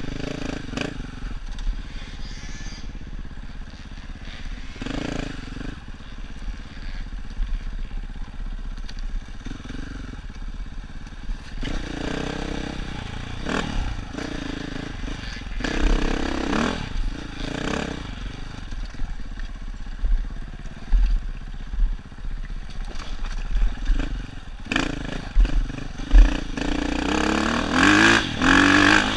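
Dirt bike engine on a trail ride, revving up in repeated surges between lower running, with scattered knocks; the strongest revs come near the end.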